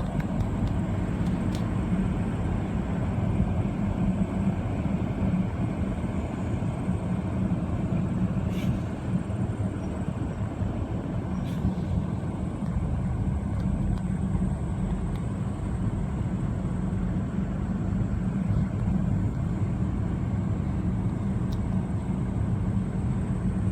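Steady low rumble of a vehicle travelling on the road, with a few faint clicks.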